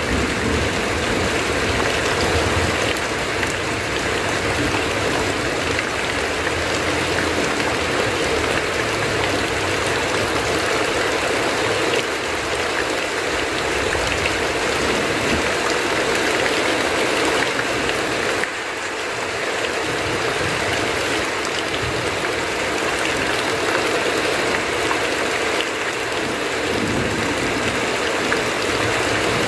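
Heavy rain drumming steadily on a tin roof, with runoff pouring off the roof edge.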